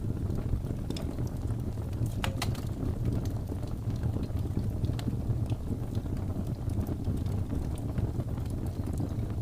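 Wood fire crackling, with scattered sharp pops and snaps, a small cluster of them about two seconds in, over a steady low rumble of wind.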